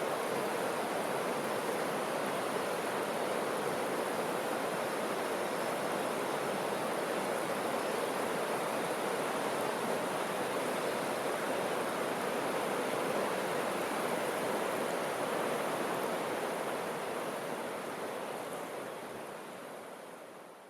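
Steady rushing of running water, fading out over the last few seconds.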